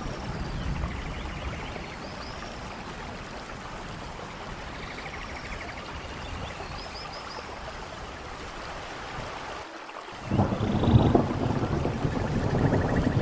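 Steady rain, with faint high chirps and trills over it. About ten seconds in the sound drops out for a moment, then comes back louder with a low rumble of thunder.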